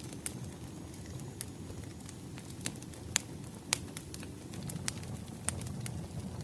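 Wood fire burning: a steady low rush with sharp, irregular crackles and pops, two of the loudest about three and a half seconds in.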